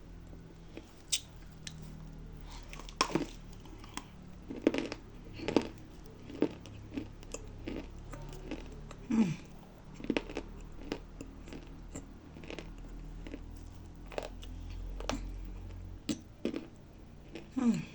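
Dry nzu clay being bitten and chewed, with irregular sharp crunches and crackles.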